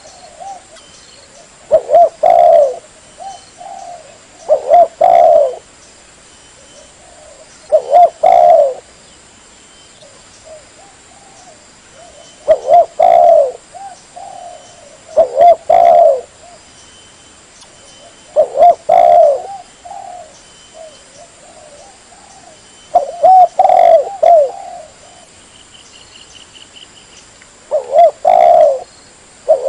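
Spotted dove (tekukur) cooing: about eight short, loud coo phrases of several notes each, repeated every two to five seconds.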